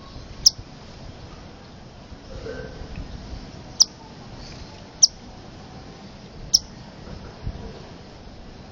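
Nuthatch giving four short, sharp, high-pitched calls, spaced one to three seconds apart.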